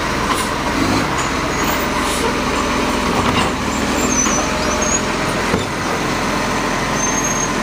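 Garbage truck's diesel engine running steadily, with a few short high whistles over it.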